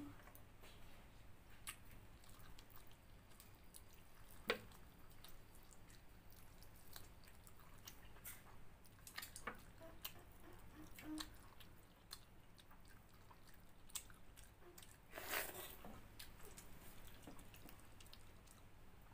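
Faint close-up sounds of a person eating chicken curry with watery soaked rice: chewing, wet squishing and scattered small clicks, with a louder rustling burst about fifteen seconds in.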